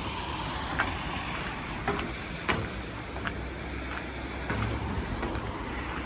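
Wind buffeting the microphone, a steady low rumble and rush, with four short sharp knocks in the first half.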